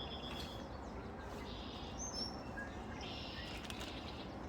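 Small wild birds chirping faintly in short, high-pitched calls and trills, scattered a few times over a steady background hum of outdoor noise.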